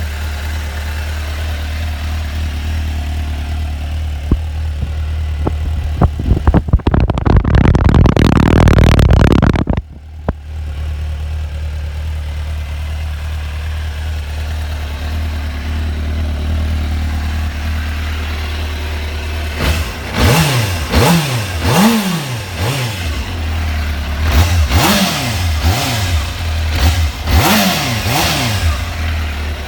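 2001 Suzuki GSX-R 600 K1's inline-four engine idling steadily. About seven seconds in it is revved hard for about three seconds and drops sharply back to idle. From about twenty seconds on it gets a series of quick throttle blips, each rising and falling in pitch.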